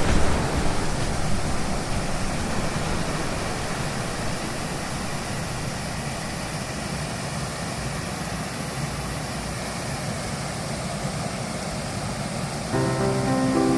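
Mountain valley stream running after rain: a steady rush of water. Music comes in near the end.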